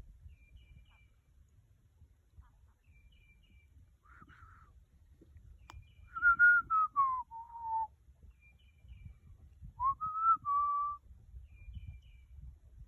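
A person whistling a few clear notes: a short one, then a longer one that steps down in pitch, then one that rises and holds. Faint short high chirps repeat in the background.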